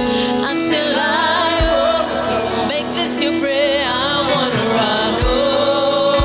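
Gospel worship singing with instrumental backing: voices with vibrato over held chords, and a few low drum hits.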